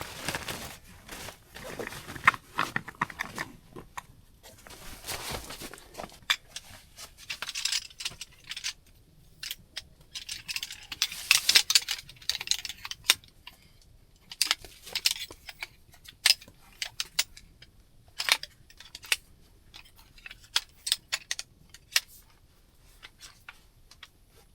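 Irregular rustling and crinkling, broken by many sharp clicks and snaps, with a longer burst of rustling about halfway through: things being handled at close range.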